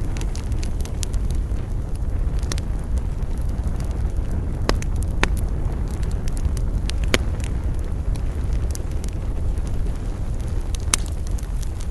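Campfire burning with a steady low rumble and a constant sparse crackle, with a few sharper pops of burning wood scattered through.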